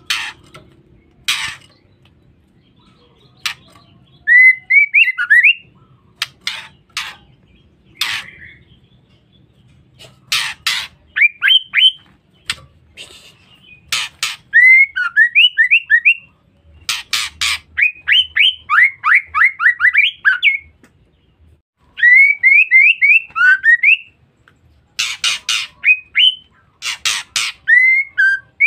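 Female white-rumped shama calling: short runs of quick rising whistled notes, alternating with harsh rasping chatter calls, repeated every second or two.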